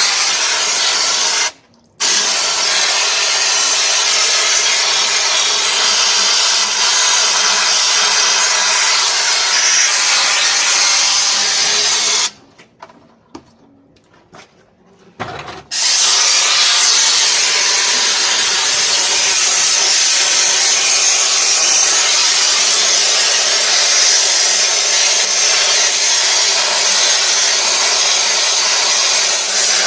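High-pressure washer spraying water in a loud, steady hiss. It stops briefly about two seconds in and again for about three seconds near the middle before starting again.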